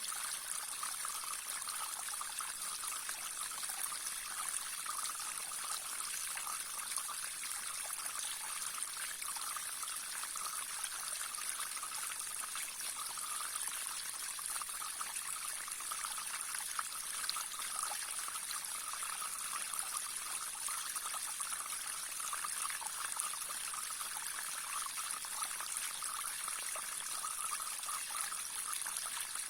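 Small stream trickling and babbling over stones, a steady bright hiss of running water with fine splashing detail.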